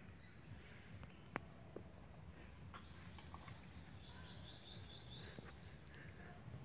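Near silence, with faint bird chirps through the middle and a single sharp click about a second and a half in.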